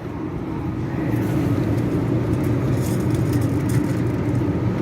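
Shopping cart wheels rolling across a store floor, a steady low rumble that builds over the first second.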